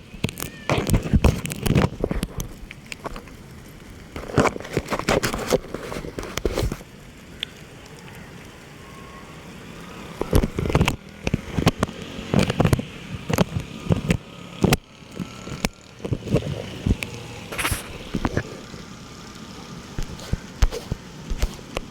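Rain starting to fall: uneven bursts of drops pattering and thumping close to the microphone, with a calmer spell about a third of the way through.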